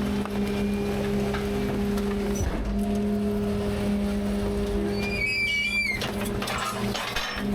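Rear-load garbage truck's packer hydraulics and engine running with a steady low drone through a compaction cycle. The drone dips briefly about two and a half seconds in, and a short high squeal comes in around five seconds in.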